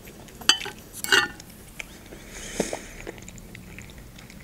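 Close-up chewing with wet mouth clicks and smacks. The sharpest click comes about half a second in, and a cluster of them follows about a second in. A soft breath and a few fainter clicks come near the middle.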